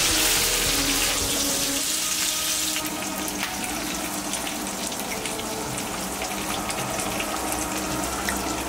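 Chicken kebab skewers sizzling in an oiled grill pan, a steady crackling hiss.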